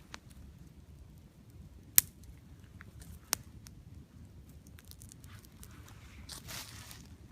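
Wood campfire crackling: scattered small ticks with two sharp pops, about two seconds in and again just over a second later, and a brief rustle near the end.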